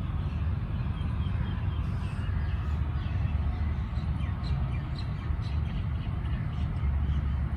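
Birds chirping and calling in short scattered notes over a steady low rumble.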